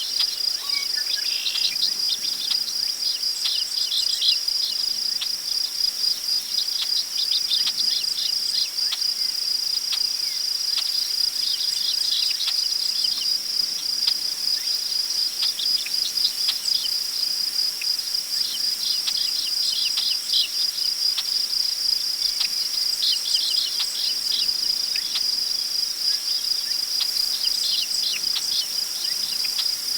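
Crickets trilling in a steady, unbroken chorus, with short bird chirps scattered throughout.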